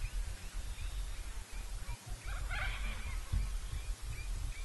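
Birds calling in short chirps, with a burst of several overlapping calls about two and a half seconds in, over a low, uneven rumble.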